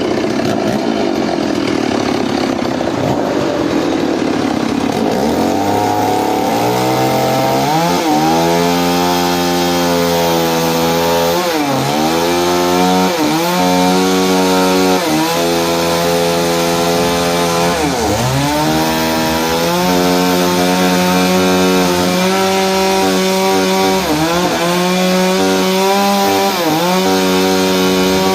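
Engine-driven saw cutting into a log. The sound is rough and unpitched at first. From about six seconds in it settles into a loud running tone whose pitch sags sharply and climbs back again and again as the engine bogs under the load of the cut and recovers.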